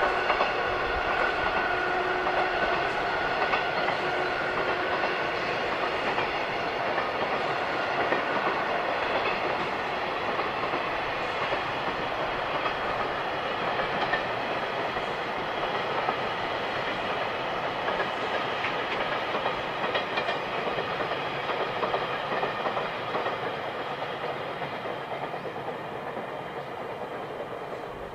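Long freight train of container wagons rolling past on a curve: a steady rumble of wheels on rail that slowly grows quieter toward the end.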